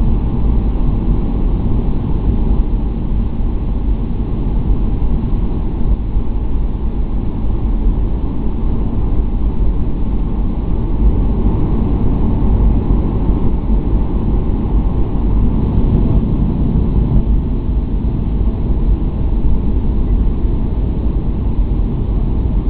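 Steady rumble of a jet airliner's engines and airflow, heard from inside the passenger cabin. It is a deep, even roar with a faint steady whine on top and no change in pitch.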